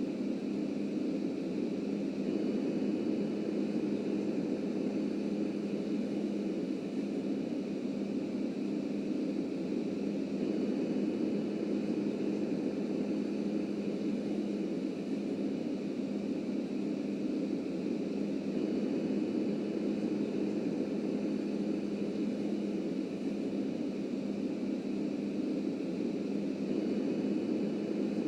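Subway train running steadily on the track: a constant rumble with an unchanging hum, no braking or horn.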